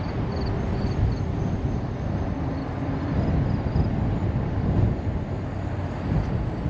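Car driving along a road: steady low rumble of road and wind noise. Faint short high chirps come and go over it.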